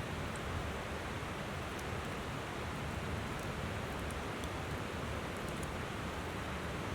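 Steady rush of a flowing river, with faint, scattered crackles and pops from a wood campfire.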